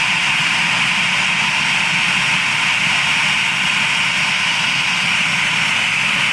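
Airbus airliner's turbofan engine running steadily during a ground run of a newly installed engine: a loud, even jet hiss with a low hum underneath and a faint high whistle.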